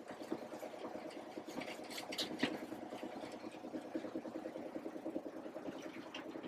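Engine idling steadily with a fast, even flutter, and a few light clicks about two seconds in.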